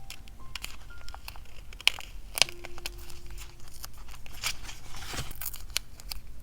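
Paper and stickers being handled: crinkling and tearing sounds with many small taps and clicks, and a longer tearing or peeling sound about five seconds in.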